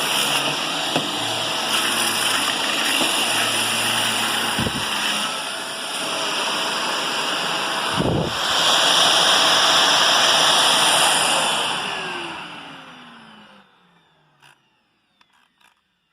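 Vacuum cleaner running with a steady high whine, with a couple of dull knocks and a rise in loudness about eight seconds in. About twelve seconds in it is switched off, and its motor winds down, falling in pitch until it stops. A few faint clicks follow.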